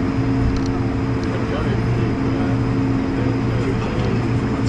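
Airliner cabin noise inside an Airbus A220-100: its Pratt & Whitney PW1500G geared turbofans run at a steady power with a constant hum of several low tones over an even rush of air. Faint voices murmur underneath.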